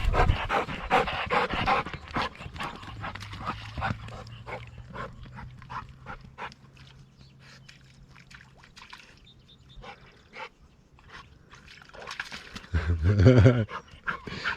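A dog's sounds as it hesitates at the water's edge, too apprehensive to go in: breathing and small noises, busiest in the first two seconds, then quieter. About thirteen seconds in comes a louder burst of pitched sound.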